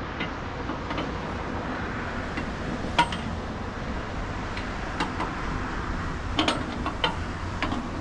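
Sharp metallic clinks and clanks of tie-down chains and binder hardware being handled, a few separate knocks with the loudest about three seconds in and a cluster near the end, over a steady low rumble.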